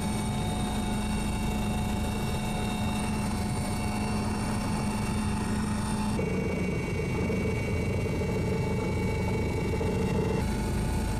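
Helicopter engine and rotor noise, steady and loud, with several held engine tones; the sound shifts abruptly about six seconds in and again near the end, as between shots.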